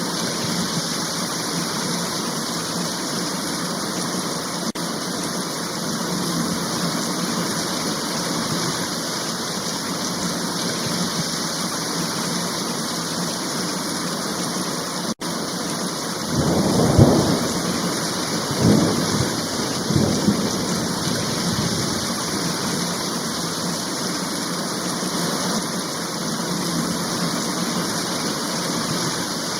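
Steady heavy rain falling, with a roll of thunder about halfway through that rumbles in three or four swells over some four seconds before fading back into the rain. The rain cuts out for an instant just before the thunder.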